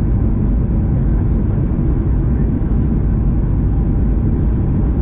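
Steady low rumble of an airplane's engines and airflow, heard from inside the passenger cabin.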